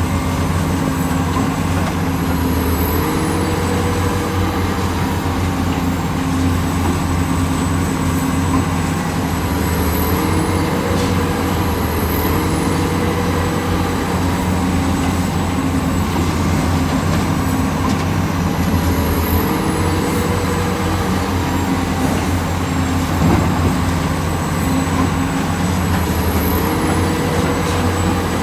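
Diesel engine of a hydraulic excavator running steadily under load, its note stepping up and down every few seconds as the machine works, with a brief knock near the end.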